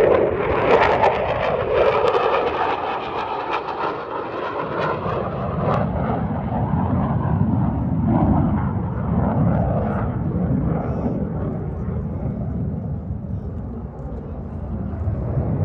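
Loud fixed-wing aircraft engine noise. It is higher-pitched for the first few seconds, then settles into a lower, steady rumble.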